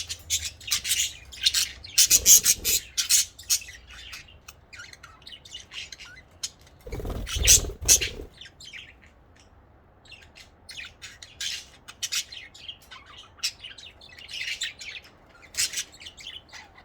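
Pet budgerigars chirping and chattering in quick, short high calls, with a brief louder noise about seven seconds in and a short lull after it.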